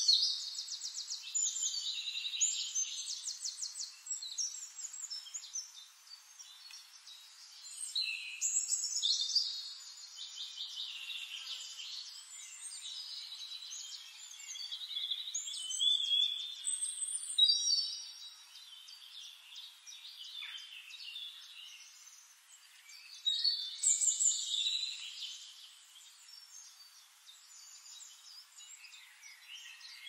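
Songbirds singing fast, high trilled phrases in loud bursts every several seconds, with fainter song and calls in between.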